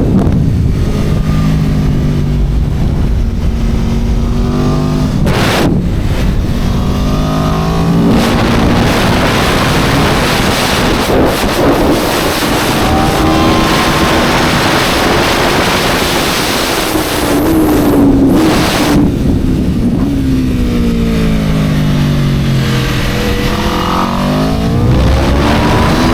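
Aprilia RSV4 superbike's V4 engine running hard on track, with a rush of wind at top speed through the middle. Its pitch drops in steps on braking near the start and again about three quarters through, with short breaks in the sound between gears.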